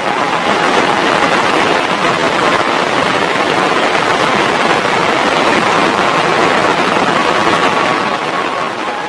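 Heavy rain falling, a dense steady hiss that swells just after the start and eases slightly near the end.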